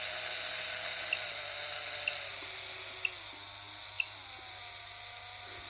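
Small DC electric motor running on about 9 volts from a bench power supply: a steady whirring whine whose pitch drops slightly a couple of times, with a faint tick about once a second.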